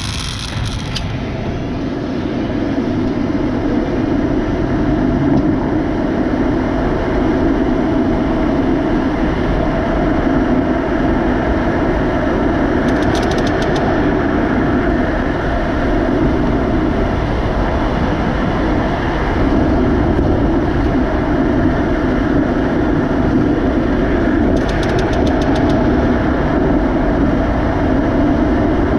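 Tesla Model 3 making a steady grinding rumble as it drives, swelling over the first few seconds and then holding on. Brief quick clicking comes twice, about halfway and near the end.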